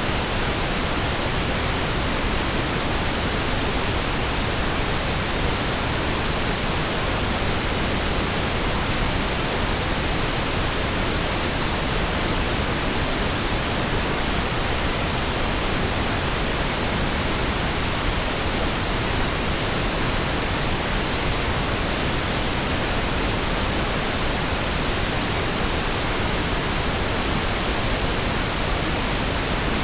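Steady pink noise: an even, continuous hiss with no changes.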